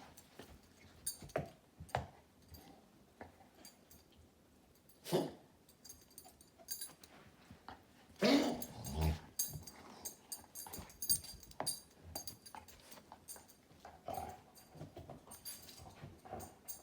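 Dog coughing in separate harsh fits, the longest and loudest about eight seconds in, with a sharp single one a few seconds before and smaller ones near the start and end.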